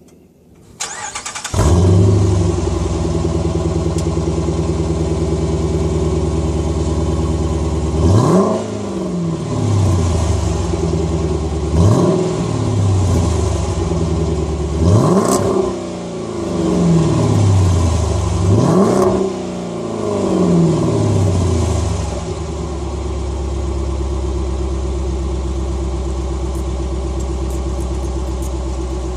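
2013 Dodge Durango R/T's 5.7 L Hemi V8, through an aftermarket Gibson split rear exhaust, cranking and starting about a second in, then running at a steady idle. It is revved four times, each rev rising and falling back, then settles to a lower steady idle.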